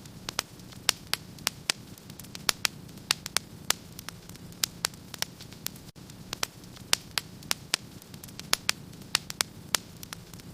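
Wood fire crackling in a fireplace: many sharp, irregular pops, several a second, over a steady low hiss. There is a momentary dropout about six seconds in.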